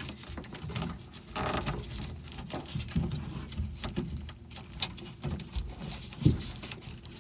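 Plastic zip ties being pulled tight around a wiring harness, a run of quick ratcheting clicks with a brief rasping pull about a second and a half in, among small handling knocks.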